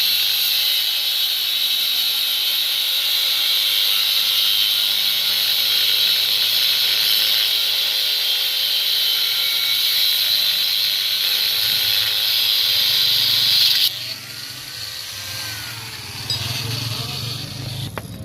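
Angle grinder cutting metal, a loud, steady, high-pitched hiss. About three-quarters of the way through it drops suddenly to a much quieter sound with a low hum.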